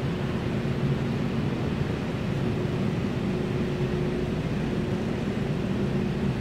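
Steady ventilation drone with a constant low hum and a rumble.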